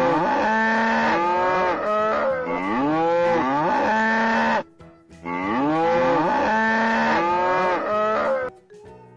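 Cow mooing, a string of drawn-out moos that rise and fall in pitch, in two long runs with a short break in the middle.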